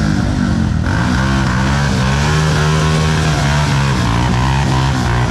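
Off-road rally vehicle engines revving hard, the pitch climbing and shifting, then holding a steady high note for a couple of seconds before changing again near the end.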